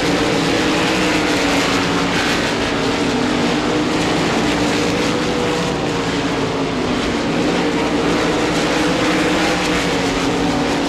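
RaceSaver sprint cars racing at speed, their 305 cubic-inch V8 engines running at high revs in a loud, steady, overlapping engine sound.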